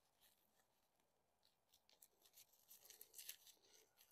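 Near silence, with a few faint, short scratchy rustles of something being handled, mostly in the second half.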